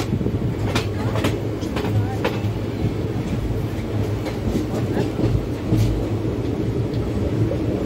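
Kalinga Utkal Express passenger train running at speed, heard from a coach window: a steady low rumble of wheels on the track, with a few sharp clicks of wheels over rail joints in the first two or three seconds.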